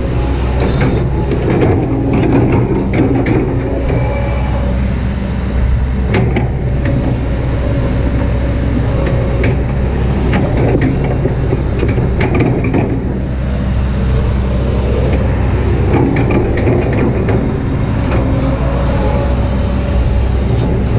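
Kobelco SK200-8 hydraulic excavator's diesel engine running steadily under working load, with repeated clanks and scrapes from the bucket and linkage as it trims a slope.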